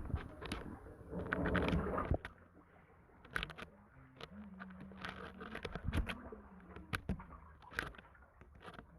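Kayak paddling: paddle splashes and water dripping, with light clicks and knocks on the kayak. The splashing is heavier in the first two seconds. A faint low steady hum runs through the middle.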